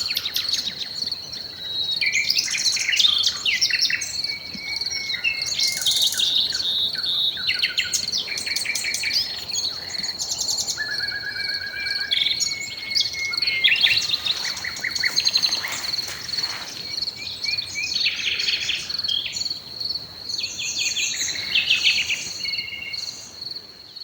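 Several songbirds singing and calling in varied chirps and trills, over a steady high-pitched insect trill that never stops.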